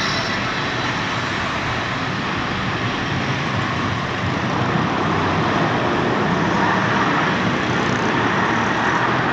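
Heavy truck engine and road noise, a steady rumbling hiss that grows a little louder about five seconds in.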